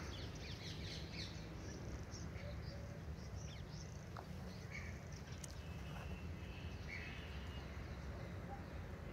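Scattered short bird chirps and calls over a steady low rumble.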